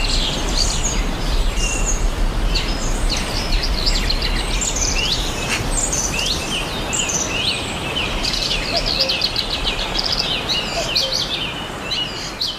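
A dense chorus of many birds chirping and calling over one another, with short rising and falling notes, over a steady background hiss and low hum.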